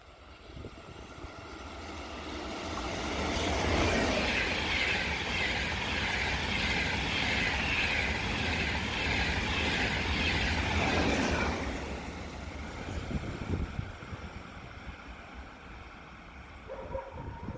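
A train passing along the track: its noise builds over the first few seconds, stays loud for about seven seconds, then fades away.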